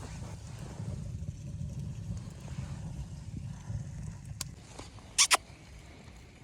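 Wind rumbling low on the microphone, with a sharp click a little past four seconds and a loud double knock just after five.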